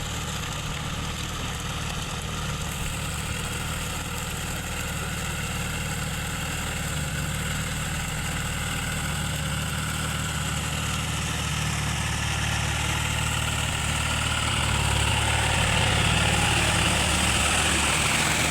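John Deere tractor's diesel engine running steadily, growing louder over the last few seconds.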